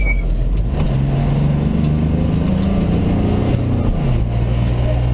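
Mitsubishi Colt rally car's engine heard from inside the cabin at speed, its revs climbing slowly under acceleration. About four seconds in the engine note drops sharply, then holds steady.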